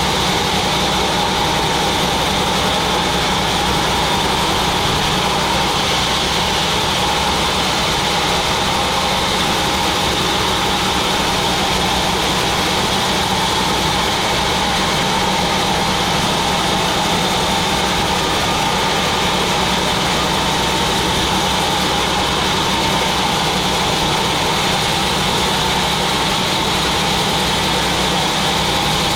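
Sawmill machinery running steadily, an even mechanical drone that does not change.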